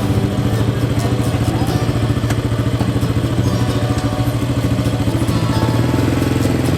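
An engine running steadily at an even speed, with a fast, regular throb.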